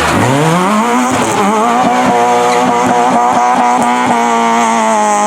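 Hillclimb race car's engine accelerating hard out of a slow corner: the engine note climbs steeply from low revs, then holds high revs with a row of short cracks.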